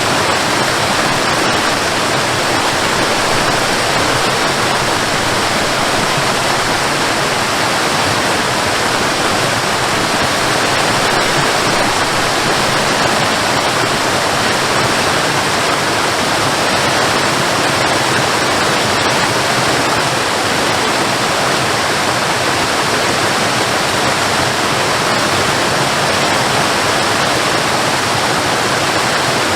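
Waterfall: falling water rushing in a loud, steady, unbroken roar.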